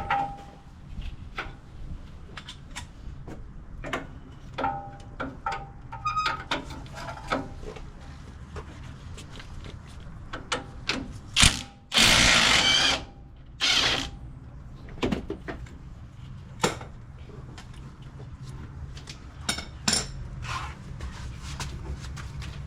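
Mechanic's tools at work: scattered metal clicks, ratchet clicks and ringing taps. About halfway through, a power tool runs in a loud burst of about a second, followed shortly by a shorter burst.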